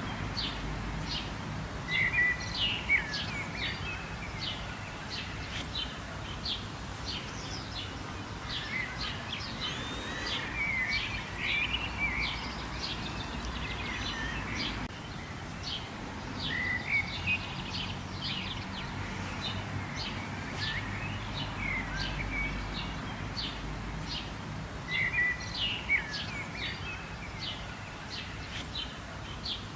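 Many small birds chirping and calling over a steady hiss of rain.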